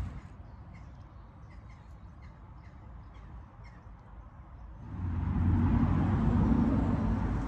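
Quiet outdoor air with faint short bird chirps, several a second; about five seconds in, a loud low rumble takes over.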